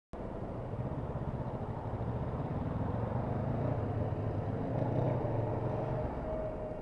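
Motorcycle engine running steadily on the road with wind and road noise, starting abruptly, getting a little louder through the middle and easing off near the end.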